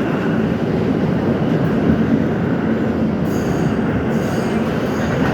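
R68 subway train running along the track, a steady loud rumble of wheels and car body. Faint high-pitched wheel squeal comes in about three seconds in.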